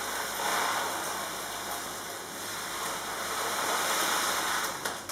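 Mixed wild-bird seed, flaked maize among it, poured in a steady rushing stream into a hollowed-out pumpkin, easing off near the end.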